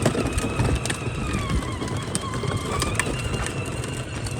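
Child's battery-powered ride-on toy truck driving, its small electric motor giving a thin steady whine over a low rolling rumble, with scattered small clicks.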